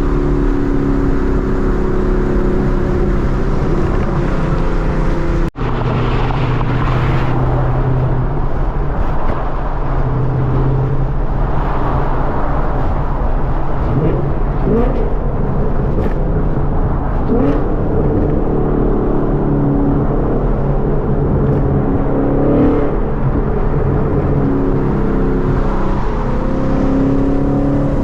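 2014 Mustang GT's 5.0-litre V8 engine and exhaust while driving, the note rising and falling as the revs change, with a few short rising pulls in the second half. The sound cuts out for an instant about five seconds in.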